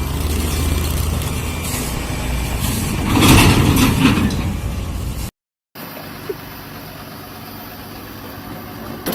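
Vehicle engine running with a steady low drone and road noise, swelling into a louder noisy rush about three seconds in. It cuts off abruptly, followed by a quieter steady road rumble.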